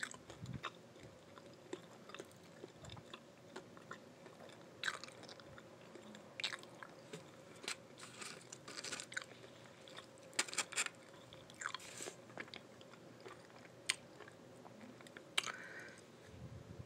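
A person chewing food, with irregular crisp crunches and small mouth clicks, busiest in the middle of the stretch.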